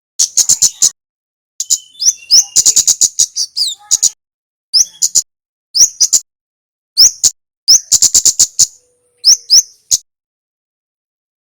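Kemade (kemlade) song: fast rattling runs of high, sharp chip notes alternating with single rising high notes, in separate phrases with short gaps between them, stopping about ten seconds in.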